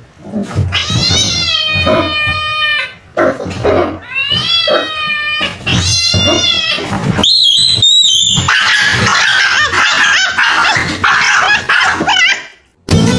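Domestic cat yowling: three long, drawn-out calls that waver in pitch, then a higher cry, followed by several seconds of rougher, noisier sound that cuts off suddenly near the end.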